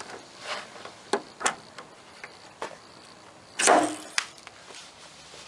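Light clicks and taps from handling paintless dent repair glue-pulling tools, then one louder, brief noise about three and a half seconds in and another click just after.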